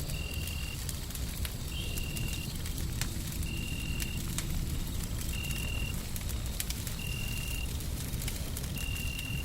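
Wood fire crackling over a steady deep rumble of white noise. A short high tone repeats about every second and a half to two seconds.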